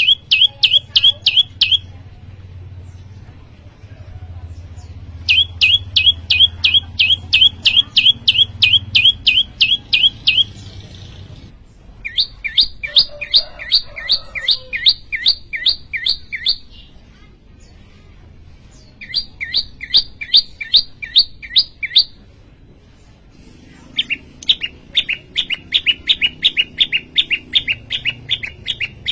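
Prenjak lumut, a small prinia, singing in five phrases of fast, evenly repeated sharp chirping notes, each phrase lasting two to five seconds with short pauses between.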